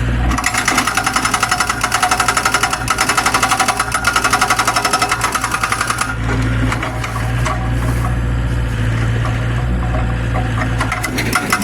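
Hydraulic breaker hammer on a Zoomlion excavator hammering rapidly, several blows a second, over the excavator's diesel engine. About six seconds in the hammering stops and the engine runs alone with a low rumble for about five seconds. The hammering starts again near the end.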